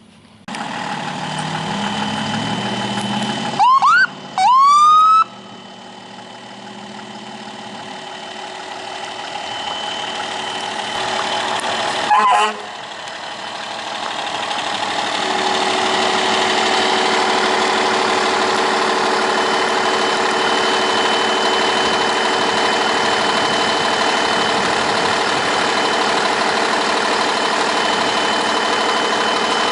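Fire truck running, with two short rising siren whoops about four seconds in and another brief blip near twelve seconds. After that a loud steady drone builds up and holds.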